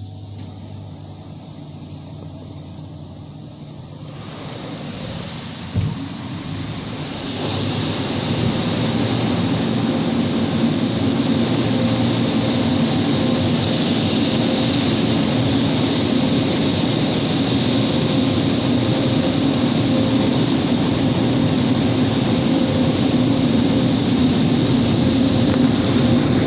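Car wash dryer blowers starting up: the rush builds from about four seconds in, with a single knock near six seconds, and from about seven seconds they run loud and steady with a high whine.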